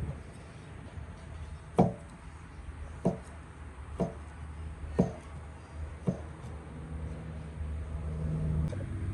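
Chopping: five sharp knocks of a blade striking wood, about a second apart, each with a short ringing tone, over a steady low hum. A low steady drone grows louder near the end.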